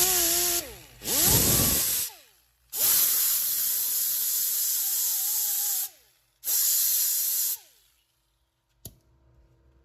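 Hand grinder run in four bursts, grinding down deep curb rash on a painted alloy wheel. Each burst starts with a rising whine as the grinder spins up, holds a loud hissing grind, and ends with a falling whine as it winds down. The longest burst lasts about three seconds. A single sharp click comes near the end.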